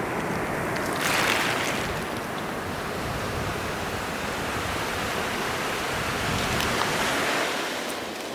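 Ocean surf breaking and washing up the beach, swelling louder twice: about a second in and again around six to seven seconds.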